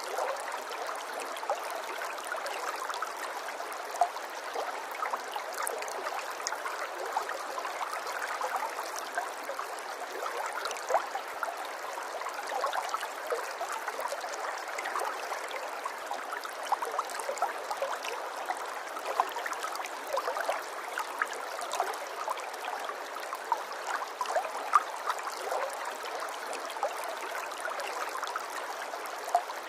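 Running water flowing steadily, with many small splashes and gurgles through it.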